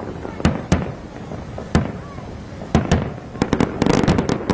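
Fireworks display: sharp bangs of aerial shells bursting with a rumbling echo between them. Single reports come every second or so, then a rapid run of crackling cracks near the end.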